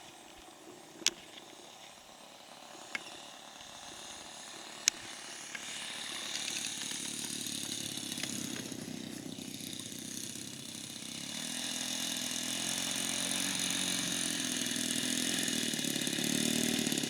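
Radio-controlled model airplane's motor droning in flight, growing steadily louder over the last two-thirds with a brief dip in the middle, as the plane passes closer. A few sharp clicks sound in the first few seconds.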